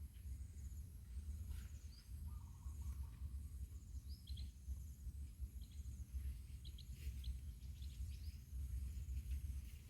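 Rural outdoor ambience: a steady low rumble of wind on the microphone, small birds chirping now and then, high insect buzzing, and one short low warbling bird call about two and a half seconds in.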